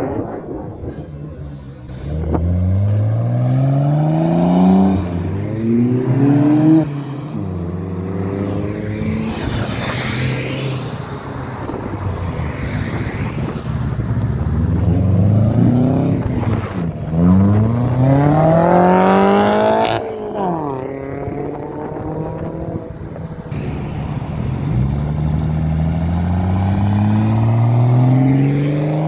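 Several performance cars accelerating hard one after another, each engine revving up with a rising pitch that drops back at a gear change and climbs again.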